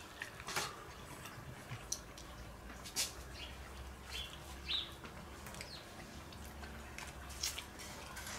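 Quiet eating sounds: kernels bitten and chewed off a grilled corn cob, with scattered small mouth clicks. Faint bird chirps now and then, a couple of them about four to five seconds in.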